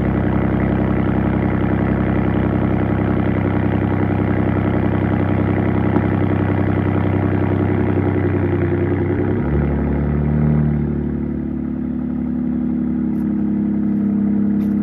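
Ford F-150 2.7 L EcoBoost twin-turbo V6 idling through a Borla ATAK rear-exit exhaust after a cold start. The idle holds steady, then drops to a lower speed about nine and a half seconds in, with a brief swell just after, and settles into an even, lower idle.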